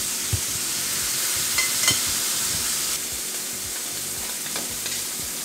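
Steady sizzle of shrimp frying in sesame oil in a skillet, with a few soft knocks of a knife cutting an avocado on a plastic cutting board.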